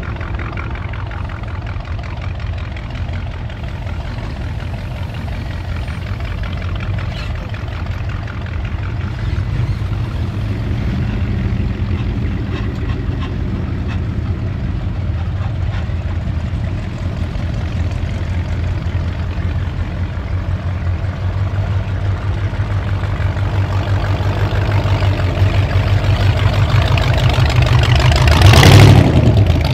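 Engines of classic and custom cars running at low speed as they drive past one after another, a steady low engine sound that grows gradually louder. Near the end it is loudest as an open-wheeled hot rod roadster passes close by.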